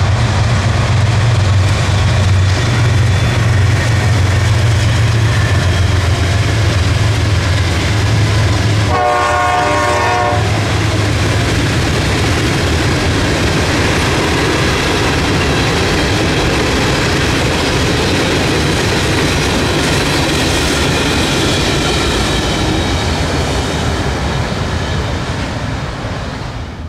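Train passing at speed behind a diesel locomotive: the engine's deep drone for the first nine seconds, then a horn sounding briefly for about a second and a half, followed by the steady rumble and clickety-clack of the cars rolling by.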